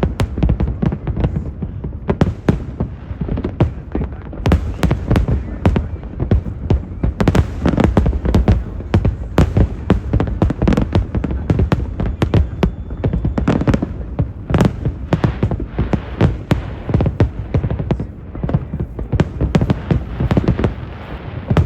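Aerial fireworks bursting in rapid, dense succession, many booms and cracks a second with no let-up.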